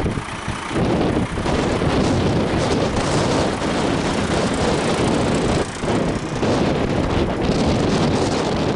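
Wind buffeting the microphone: a loud rumbling noise that rises and falls irregularly in gusts, with a brief lull a little past halfway.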